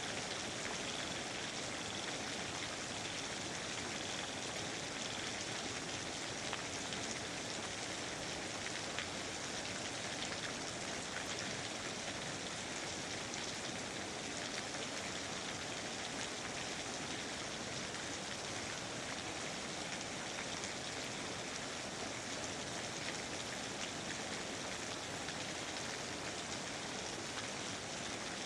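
Steady rain falling, an even hiss of rain with many small drop ticks on surfaces.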